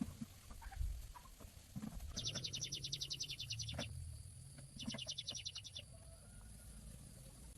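A bird's rapid high trill, given twice: a burst of about a second and a half, then a shorter one a second later.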